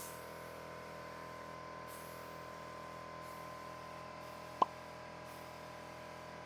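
A steady hum of several constant tones, with one short sharp click about two-thirds of the way through.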